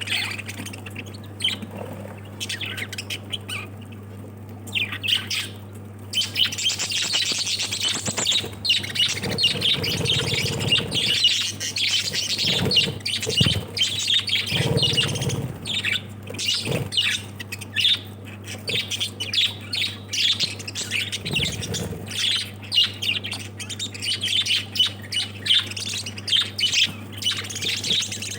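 A group of lovebirds chattering and squawking with many quick overlapping calls, sparse at first and thick and continuous from about six seconds in. A steady low hum runs underneath, with a few low thuds.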